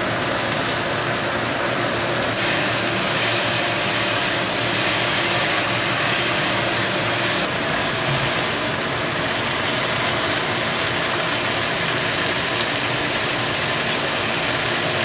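Long beans and chilli sizzling as they are stir-fried in a wok, with a steady hum underneath. The high hiss of the sizzle drops a little about seven seconds in.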